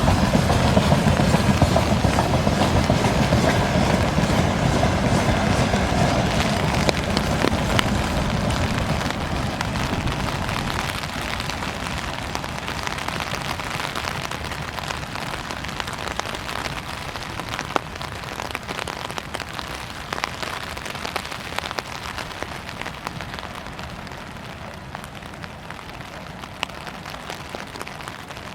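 Freight train wagons rolling past on the rails, a low rumble with scattered wheel clicks that fades steadily as the train moves away, leaving a steady hiss with a few clicks near the end.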